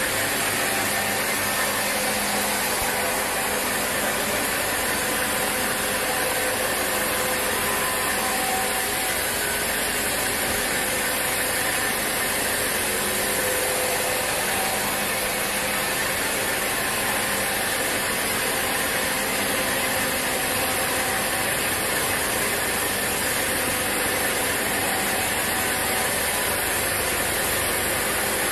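Sawmill saw running, a loud, even noise with faint steady hum tones that hardly changes.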